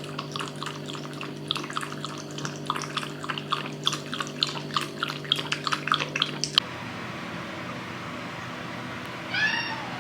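A shiba inu lapping milk from a bowl: quick, even laps about four or five a second, over a steady low hum, stopping abruptly about six and a half seconds in. Near the end a cat meows once.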